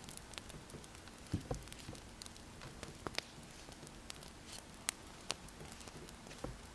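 Wood fire crackling, with irregular sharp pops (the loudest about a second and a half in and about three seconds in) over a low steady hiss. Pen scratching on paper is mixed in.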